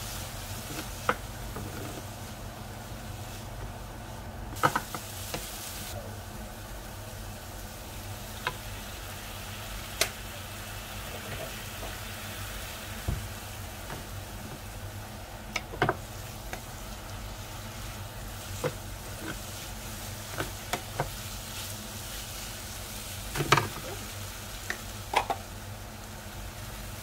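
Kimchi and diced ham sizzling steadily in a nonstick pan while a wooden spatula stirs them. Light knocks and scrapes of the spatula on the pan come every second or two, with a few louder knocks near the end.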